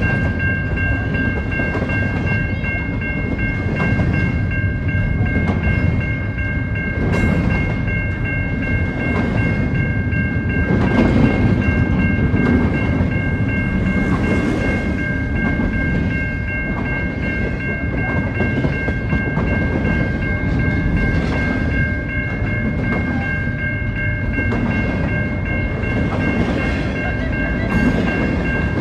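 CN double-stack container freight train rolling past: a steady rumble of steel wheels on rail with repeated clacks as the wheels cross rail joints. A steady high-pitched ringing tone runs over it throughout.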